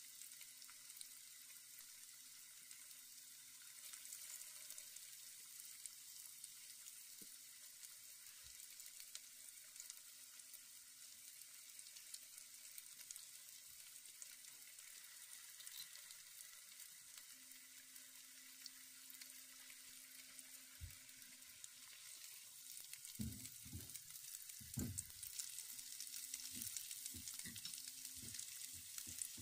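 Breaded bread-and-egg tikkis shallow-frying in oil in a nonstick pan: a faint, steady sizzle. Near the end a few short, low knocks come in over it.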